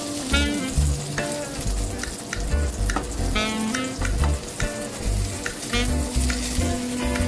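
Hamburg steak patties sizzling in hot oil in a nonstick frying pan, a steady crackling hiss.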